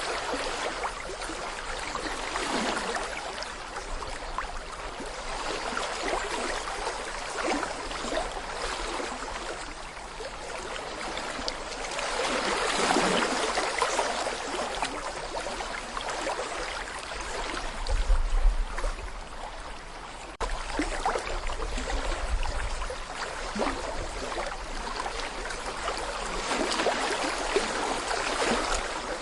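Small brook babbling over stones: a steady rush of water with gurgling that swells and eases every few seconds. A brief low rumble sounds about two-thirds of the way through.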